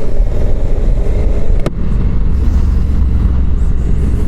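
Honda CRF1100 Africa Twin motorcycle on the move: its parallel-twin engine running under a heavy low rumble, with one sharp click about a second and a half in.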